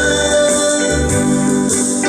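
Live busker band playing a Hawaiian-style song: a held chord of steady sustained notes over a low bass beat.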